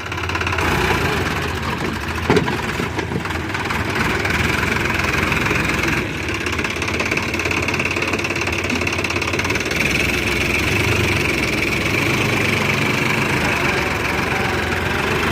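Diesel engine of heavy farm or earthmoving machinery running steadily, with a thin steady whine high above the engine note from about four seconds in.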